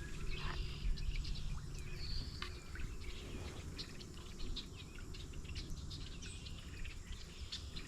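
Small birds chirping in short calls and brief whistled glides, over a low, steady background noise.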